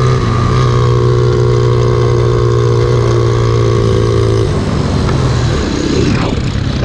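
Pit bike engine running at steady high revs while riding, its note dropping away about four and a half seconds in, leaving a rush of wind and riding noise.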